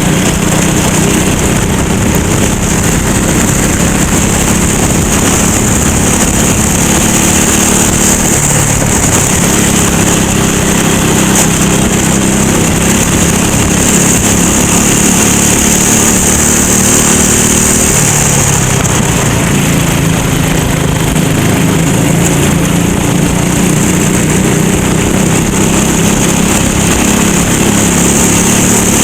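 Go-kart engine running hard at race speed, heard close up from on board, its pitch dropping and climbing again a couple of times, with a steady high hiss over it.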